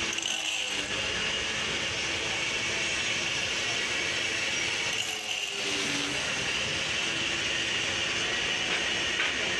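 Steady hiss with a high tone running through it, dipping briefly near the start and again about five seconds in.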